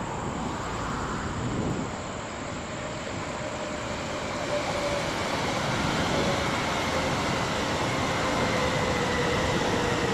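CRH1 electric multiple unit passing on the line, a steady rushing rumble that swells as the train goes by, with a faint whine slowly falling in pitch.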